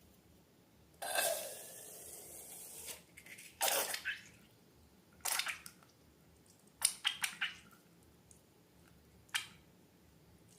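Hands working slime and balloons: a hissing rush for about two seconds starting a second in, then a few short, sharp, wet crackles and clicks, with a quick cluster of them in the middle.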